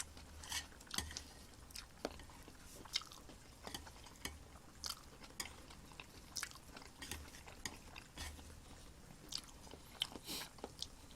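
Faint close-up chewing of egg: soft wet mouth smacks and small clicks at irregular intervals.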